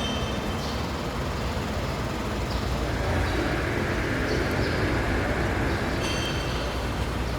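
Vehicle running with a steady low rumble of engine and road noise, with a few brief faint high squeaks.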